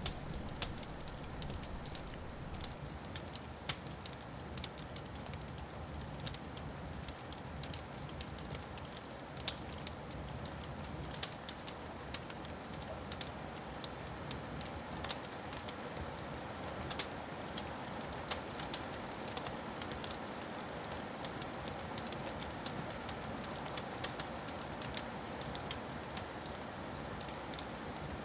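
Wood fire crackling steadily, with frequent sharp pops and snaps. Under it runs a low rumble of distant thunder, which fades out about twelve seconds in.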